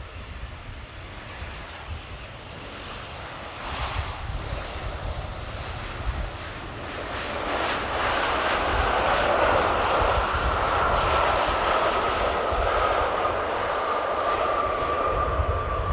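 Embraer E190 jet on landing approach, its twin General Electric CF34 turbofans growing louder from about halfway through as it passes, with a high engine whine that slowly falls in pitch. Gusting wind buffets the microphone with a low rumble throughout.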